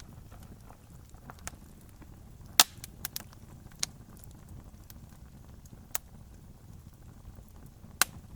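Wood campfire crackling: scattered sharp pops and snaps, the loudest about two and a half seconds in and another near the end, over a steady low rumble.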